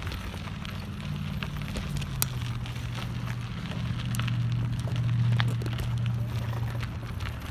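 Riding noise from a bicycle with the phone mounted on it: a low hum that steps down in pitch and grows louder through the middle, with scattered crackles and clicks from the tyres and the rattling mount.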